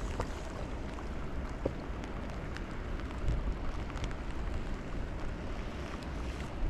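Wind rumbling on the microphone over a steady hiss of light rain on the water, with a few scattered small ticks.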